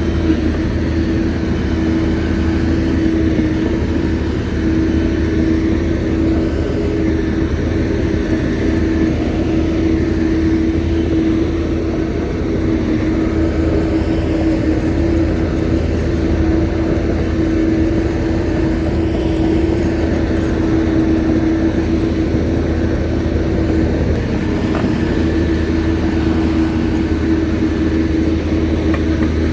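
Shantui bulldozer's diesel engine running steadily, a constant drone with a steady whine over it that does not rise or fall.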